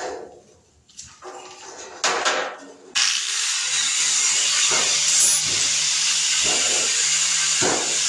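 Handling knocks, then about three seconds in an angle grinder starts grinding down steel weld patches: a loud, steady hiss with a faint low motor hum beneath it.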